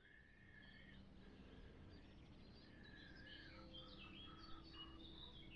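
Faint bird calls, short chirps, some stepping down in pitch, over quiet outdoor background noise.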